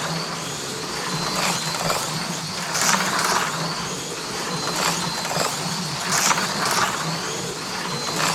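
HO-scale AFX Mega G+ F1 slot cars racing on a plastic track: small electric motors whirring and tyres rattling over the rails, swelling about every second or so as the cars pass, over a steady low hum.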